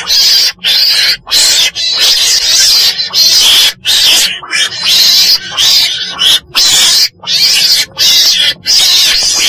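Weasel (Mustela) calling over and over in harsh, hissing bursts, each up to about a second long with brief breaks between them.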